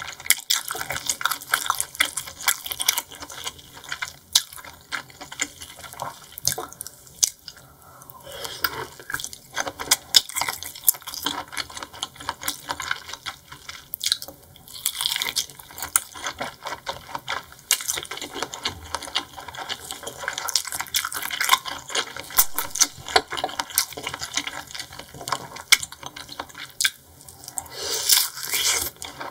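Close-miked wet chewing and mouth sounds of someone eating seafood: an irregular stream of sharp wet clicks, smacks and squelches, with a few short pauses.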